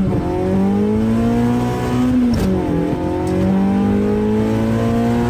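Car engine heard from inside the cabin, accelerating hard: the revs climb steadily, fall suddenly at an upshift a little over two seconds in, then climb again through the next gear.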